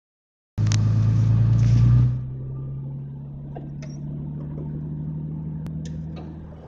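Ford Mustang engine running steadily, heard from inside the car: loud for about a second and a half after it cuts in, then settling to a quieter, even hum, with a few light clicks near the end.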